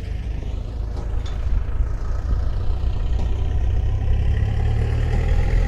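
Low, steady rumble of a moving vehicle's engine and road noise, growing gradually louder toward the end.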